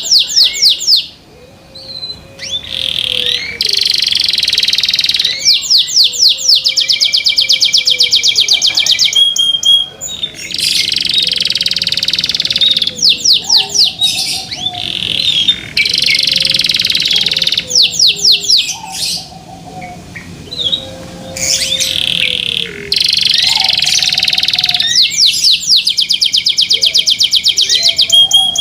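Domestic canary singing loud, high song phrases with rapid rolling trills, broken by short pauses every few seconds.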